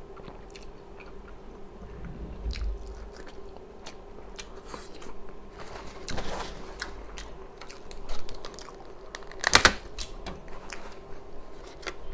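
A person chewing and biting food close to the microphone: wet mouth sounds with scattered sharp clicks, the loudest about three quarters of the way in, over a faint steady hum.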